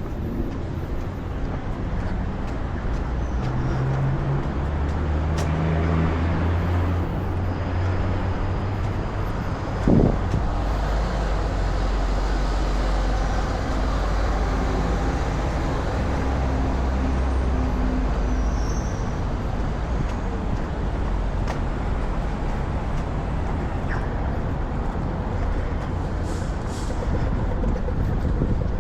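Road traffic passing: engine hum of vehicles rising and fading, with heavier vehicles such as buses among them, and a brief loud sharp sound about ten seconds in.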